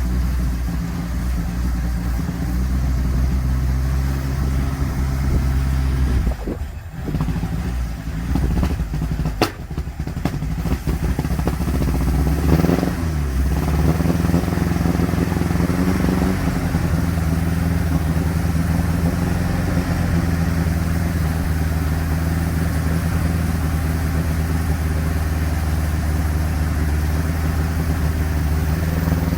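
The 1172 cc sidevalve four-cylinder engine of a 1957 Ford Popular 103E runs with a misfire. About six seconds in it stumbles and dips, with a sharp click a few seconds later. It then picks up in a short rise and settles into a steady run at a higher speed.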